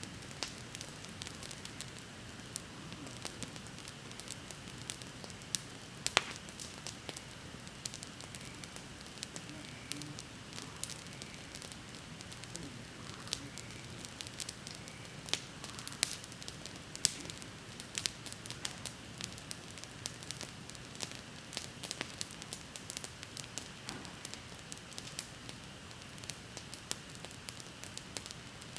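Wood bonfire burning, crackling and popping irregularly with many small snaps and a few loud sharp pops.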